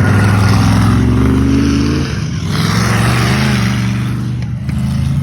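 Stock car racing engines running loud, the engine note rising and falling as the cars accelerate and ease off, with a brief dip about two seconds in and again near the end.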